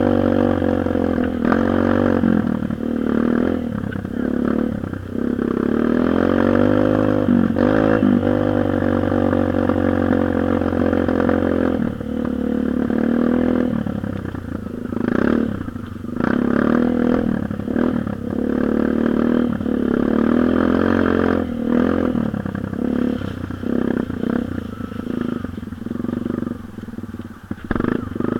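Dirt bike engine running under a changing throttle, its pitch repeatedly rising and falling as the revs climb and drop, with a few brief dips where the throttle comes off.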